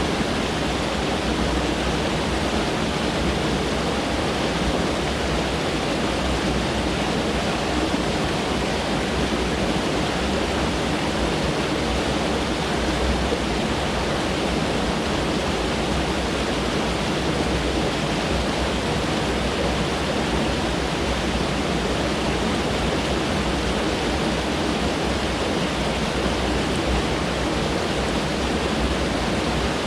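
Mountain stream water rushing over rocks, a steady, even noise with no breaks.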